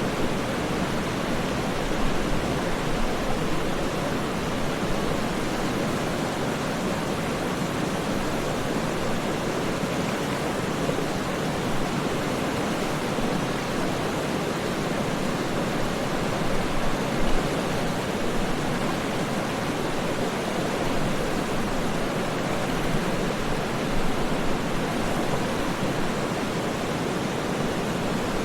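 Waterfall rushing steadily, a dense even roar of falling water with small irregular splashes in its level.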